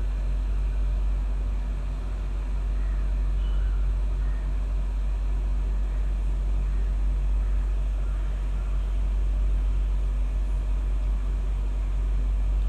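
Steady low rumble of background noise with no clear events in it.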